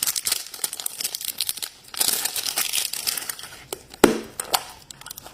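Crinkly packaging of a blind-bag surprise toy being handled and torn open, a dense run of crackles and rustles that swells about two seconds in. A sharp knock about four seconds in.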